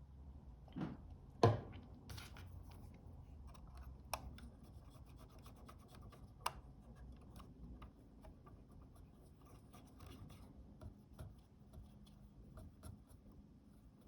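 Faint scratching and rubbing of a small stick working sticky glue off a camera's shutter flex cable. Light ticks run throughout, with a few sharper clicks about one and a half, four and six and a half seconds in.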